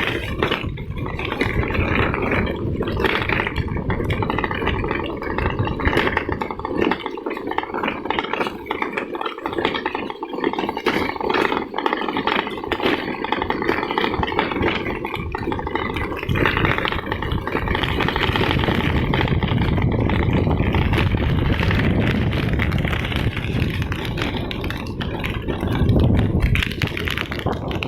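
A vehicle travelling along a rough unpaved road, its engine running under a steady din of rattling and clattering.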